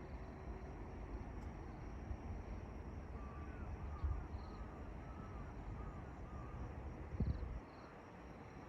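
A steady low rumble of outdoor noise, with a bird giving a quick run of about six short calls in the middle. There is a knock about four seconds in and a thump just after seven seconds.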